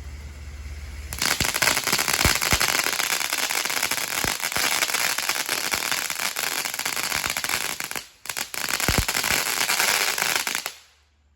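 "Fat Cat" consumer firework going off in a dense run of rapid crackling pops. It breaks off briefly about eight seconds in, resumes, and stops abruptly shortly before the end as the firework burns out.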